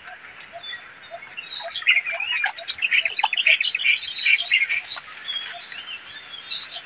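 Birds chirping and singing, several calls overlapping, with a few short rapid trills.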